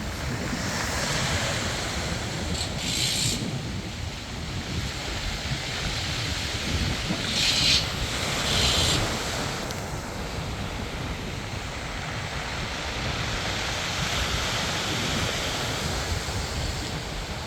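Sea waves surging and washing in, with short hissing splashes about three, seven and nine seconds in. Wind buffets the microphone underneath.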